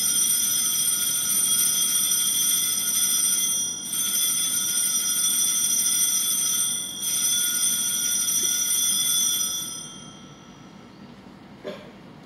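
Altar bells rung at the elevation of the chalice during the consecration: three long peals of high, shimmering ringing, each a few seconds long, stopping about ten seconds in.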